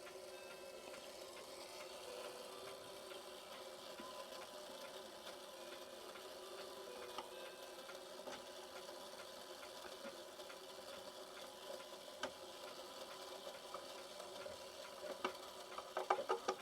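Herschede clock's chime mechanism running on with a faint steady whir; it will stop only once the clock is tipped up. Small metallic clicks and taps come from screws being fitted, several in quick succession near the end.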